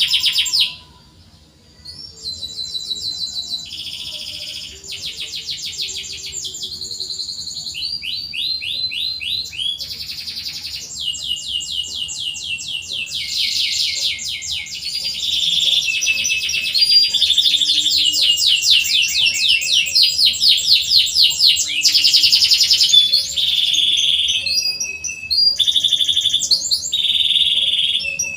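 Domestic canary singing a continuous song of fast trills and chirps, each run of repeated notes giving way to a new one every second or two. There is a short break about a second in, and the phrases grow louder in the second half.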